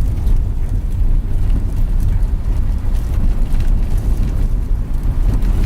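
Steady low rumble of a van's engine and tyres on the road, heard from inside the cabin while driving.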